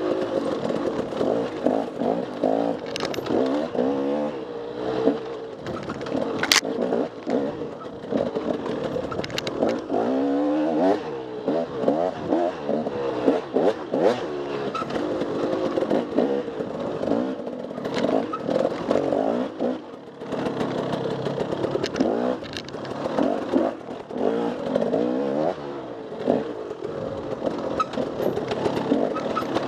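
Enduro dirt bike engine being ridden hard off-road, its revs climbing and dropping every second or two as the throttle is worked on and off. A few sharp clicks and knocks sound now and then.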